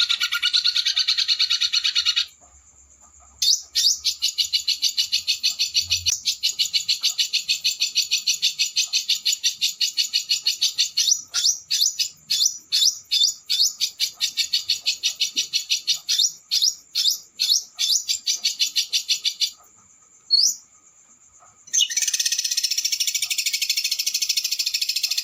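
A small songbird's recorded song in fast, high-pitched rolling trills, the 'roll speed' with harsh 'shots' used as tutor song for white-rumped shamas. After a short break about two seconds in, the trill runs on, then breaks into a run of quick separate downward-sweeping notes, about three a second. Another pause follows before a dense trill resumes near the end.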